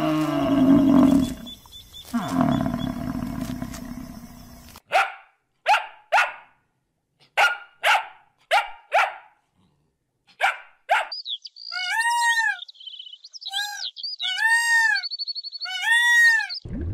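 A dog barking in a series of short, separate barks, then giving higher, arching yelps or whines. Before the barks, in the first few seconds, there is a loud, low, rough sound.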